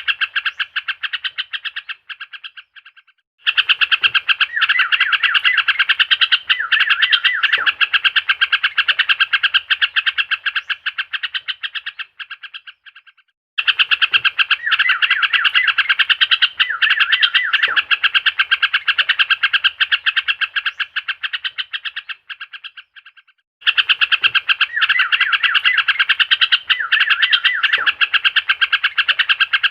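Trucuk (yellow-vented bulbul) call recording played as a lure to set a silent bird singing: dense, rapid chattering and chirping that stops briefly three times and restarts the same way, a loop of roughly ten seconds.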